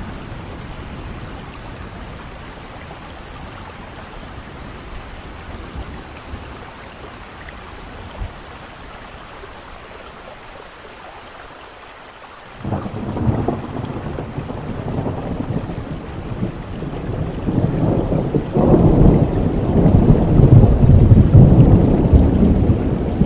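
Steady rain hiss from a thunderstorm. About halfway through, a roll of thunder breaks in suddenly and swells into a long low rumble, loudest near the end.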